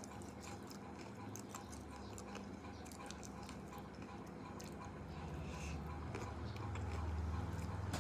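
A person chewing a crunchy snack mixture of uncooked instant noodles, with many small crisp crackles.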